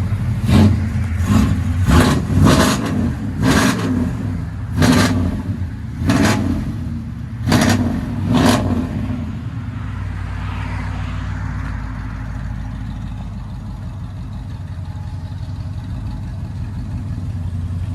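1998 Chevy K1500 Silverado's 5.7-litre V8, running through long-tube headers and straight-piped true dual exhaust, revved in about nine quick sharp blips. It then settles to a steady, deep idle rumble for the second half.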